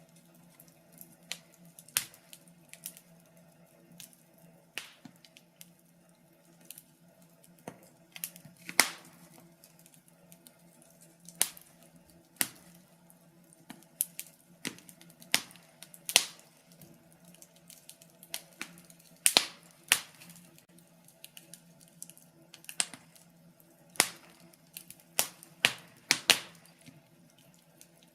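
Wood fire crackling: irregular sharp pops and snaps from burning logs, a few louder than the rest, over a faint steady low hum.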